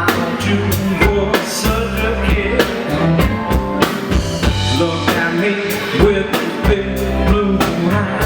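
Live rock band playing an instrumental passage, drum kit keeping a steady beat under bass and guitar.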